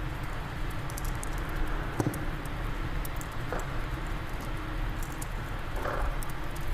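Fireplace fire crackling, with scattered sharp pops and a few louder snaps, over a steady low rumble of wind.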